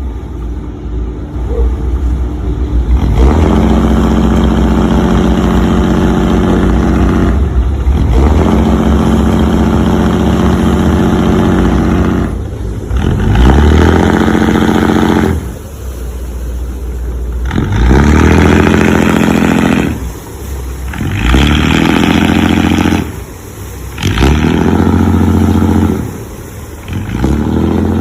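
Motor of a radio-controlled toy heavy-equipment vehicle running in repeated spells of a few seconds. Each spell starts with a quick rise in pitch and then holds steady, with short drops in between.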